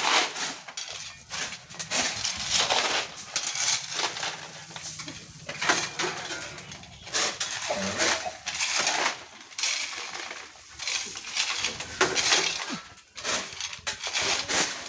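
Stones clattering and knocking against each other and a hard surface in an irregular run of sharp impacts, as stones are loaded. A low steady hum runs under the first half.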